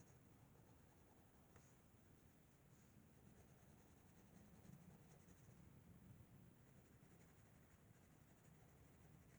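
Faint scratching of a coloured pencil on paper, shading in quick repeated strokes that come and go.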